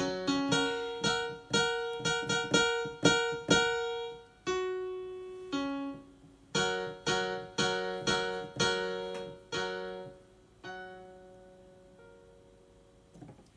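Solo piano playing repeated chords, thinning out and ending on a final chord about eleven seconds in that rings away to near silence.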